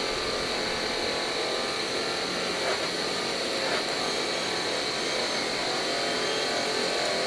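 TIG welding arc on a steel seat base, a steady buzzing hiss that holds even throughout.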